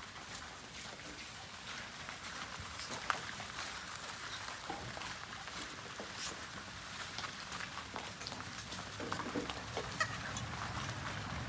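French Bulldog puppies moving about, a scatter of small clicks and scuffles over a steady hiss.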